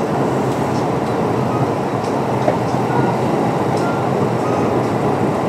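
Kintetsu 9820 series electric train running at speed, heard inside the passenger car: a steady rolling noise from wheels and running gear, with a few faint ticks.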